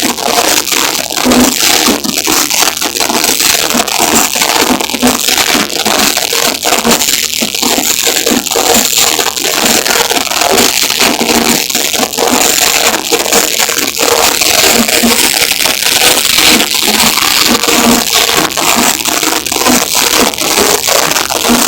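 Loud, harsh, distorted din of a crowded event, overloading the recording microphone.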